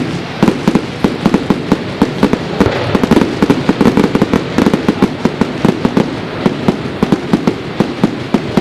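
Aerial fireworks going off in a rapid, irregular barrage of sharp bangs and pops, several a second, over a steady crackle.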